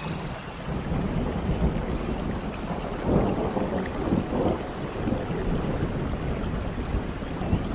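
Steady rain with low rolling thunder, the rumble swelling about three seconds in.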